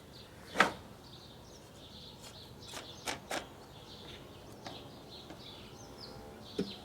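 Hive frames being set into a beehive box: one sharp knock about half a second in, then a few lighter knocks around three seconds in. Small birds chirp faintly throughout.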